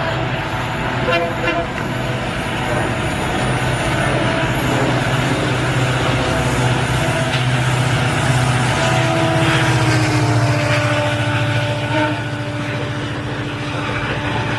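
Local passenger train running, a loud steady rumble with a low hum; about nine seconds in, steady tones join and last to the end.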